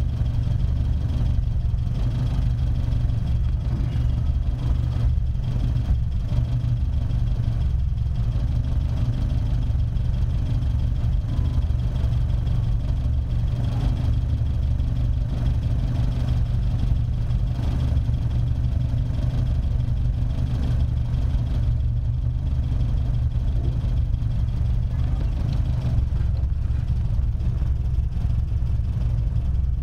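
Triumph TR3A's four-cylinder engine idling steadily.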